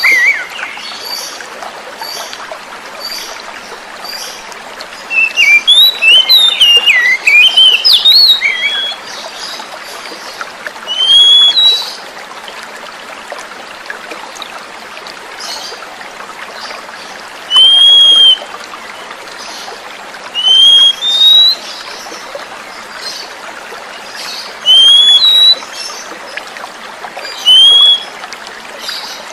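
Oriental magpie-robin (kacer) singing over steadily running water: a quick run of varied whistled notes a few seconds in, then single arched whistles repeated every few seconds.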